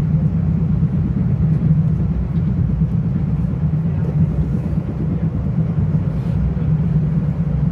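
Metro-North commuter train running between stations, heard from inside a passenger car: a steady low rumble from the wheels on the track.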